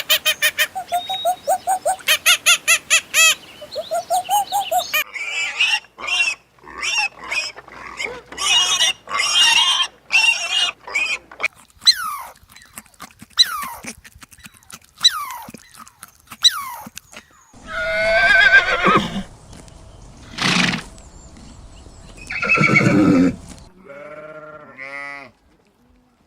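A string of different farm animal calls in quick succession: a rapid run of short pulses for the first five seconds, then assorted short calls and cries, ending with sheep bleating.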